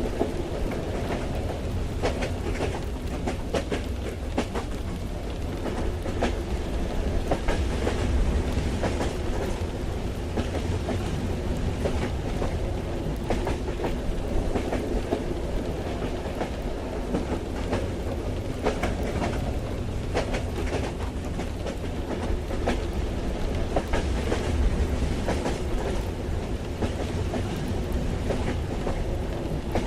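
Train ride ambience heard from inside a carriage: a steady low rumble, with irregular clicks and clatter of the wheels running over the track.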